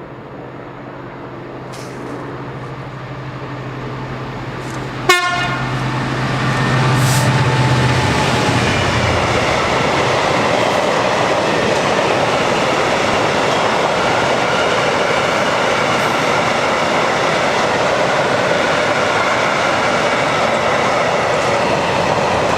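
Class 66 diesel locomotive's EMD two-stroke V12 engine approaching and growing louder, with a short, sharp horn toot about five seconds in. The engine note fades after a few seconds, and a steady rumble and clatter of freight wagons rolling past on the rails continues.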